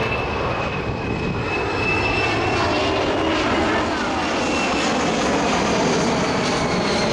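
Boeing C-17 Globemaster III's four Pratt & Whitney F117 turbofan engines running at high climb power in a maximum-angle climb: a steady, loud jet noise with a high whine that slowly falls in pitch.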